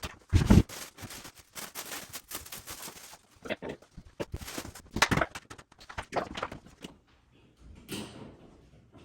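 Cardboard box and packing material being handled and pulled open, irregular rustling and scraping with a heavy thump about half a second in.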